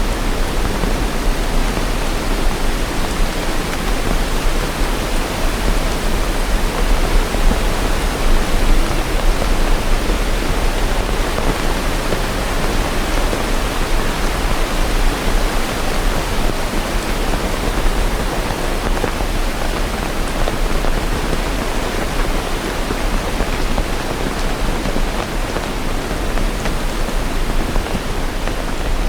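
Steady rain falling, an even, unbroken hiss with no thunder or other events.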